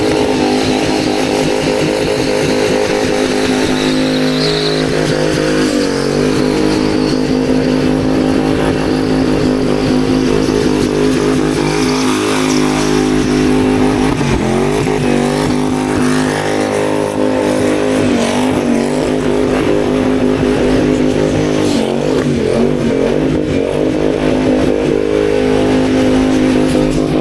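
Car engine held at high revs during a burnout, with the revs dipping briefly and climbing back a few times, over a steady hiss of noise.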